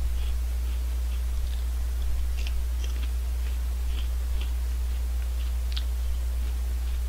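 Crunchy Honey Tongtong potato-chip snack being chewed close to a microphone: small irregular crunches, with one sharper crunch late on. A steady low hum runs underneath.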